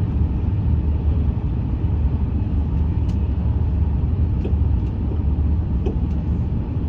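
Steady low rumble of a French high-speed train running, with a few faint ticks.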